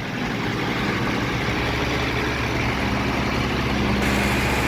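Mercedes-Benz M110 straight-six idling steadily on its freshly adjusted Solex 4A1 carburettor, warm and running smoothly and quietly.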